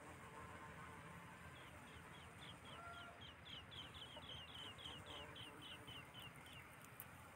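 Faint bird calls: a run of short, high, falling chirps, about five a second, lasting several seconds before stopping near the end.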